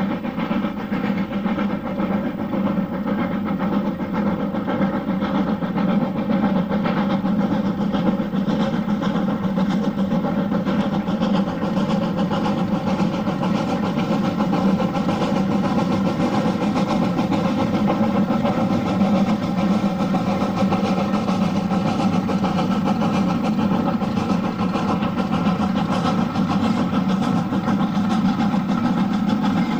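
Train engine idling, a steady unbroken hum with many overtones and no change in speed.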